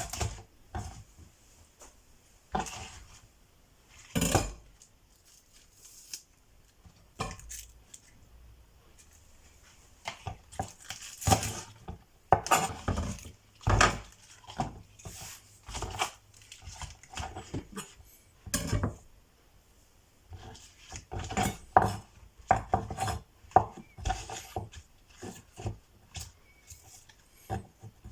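Kitchen utensils and dishes knocking and clattering irregularly against one another and a wooden surface, as food is prepared, with a couple of short pauses.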